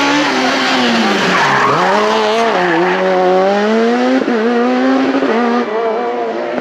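Super 2000 rally car's 2.0-litre naturally aspirated four-cylinder engine at high revs. Its pitch drops sharply about a second and a half in as the car slows for a corner, then climbs again as it accelerates away, with tyre noise.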